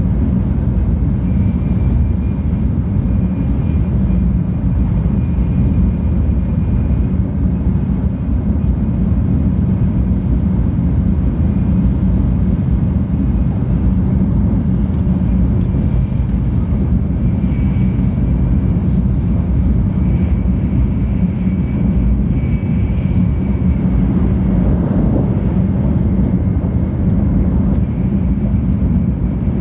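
Cabin noise inside a moving 700 series Shinkansen car: a steady low rumble of the running train, with a faint high tone coming and going.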